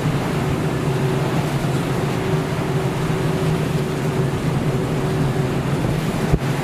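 A ship's engine droning steadily at sea, with a low, even hum under a constant rush of wind and water. Near the end there is a brief click and a momentary dropout.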